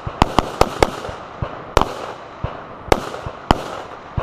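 A string of rifle and pistol gunshots on an outdoor range from an AR-style carbine and pistol drill. Several sharp shots come in quick succession in the first second, followed by single shots spaced about a second apart, each with a short echo.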